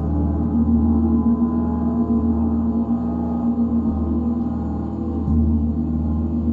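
A gong ringing in a steady wash of overtones for a sound meditation, with a fresh stroke about five seconds in.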